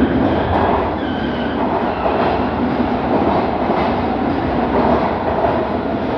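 MARTA rapid-transit train running on the rails: a loud, steady rumble of wheels and running gear with a few faint high tones over it.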